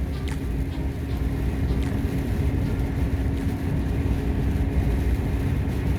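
Steady low engine and road rumble heard inside a moving truck's cab, with a faint steady hum that drops out about two seconds in.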